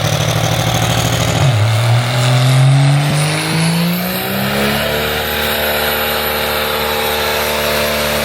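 Second-gen diesel pickup engine with a hood stack, free-revving: it runs steady for a moment, climbs smoothly in pitch over about three seconds, holds high revs, then drops off near the end.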